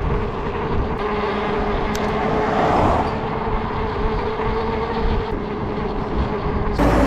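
Electric unicycle hub motor whining steadily while riding, over wind and tyre rumble. Near the end the whine drops in pitch and the rumble gets louder.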